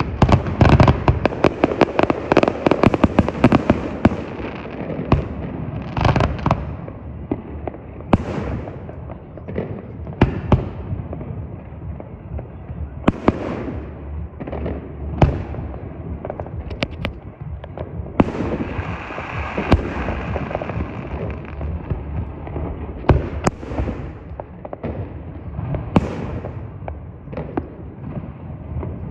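Fireworks going off: a dense, rapid crackling barrage for the first few seconds, then separate sharp bangs and pops at irregular intervals, with a stretch of hissing crackle about two-thirds of the way through.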